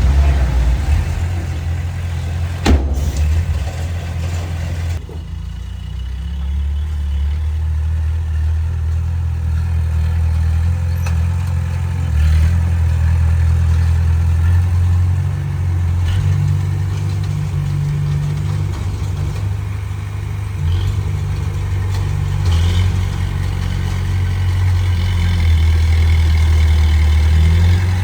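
Diesel engine of a heavy earthmoving machine running, its deep sound rising and falling as it works under load. A single sharp knock comes about three seconds in.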